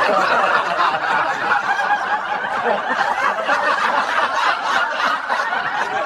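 Laughter from many people at once, a steady unbroken wash of laughing.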